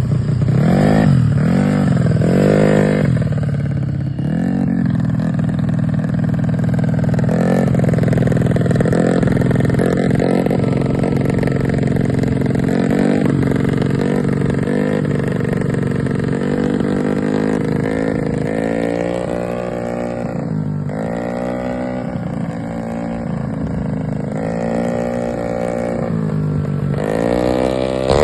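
Honda BeAT scooter's single-cylinder engine, carbureted and enlarged to 150cc, through a racing exhaust, revving up and down repeatedly. There are quick blips in the first few seconds, then longer rises and falls in pitch.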